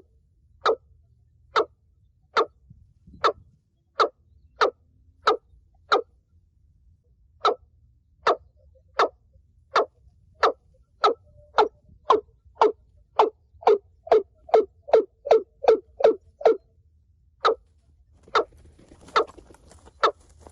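Watercock giving its deep, hollow repeated call notes, about one a second at first, speeding up to two or three a second around the middle and slowing again. A brief rustle near the end.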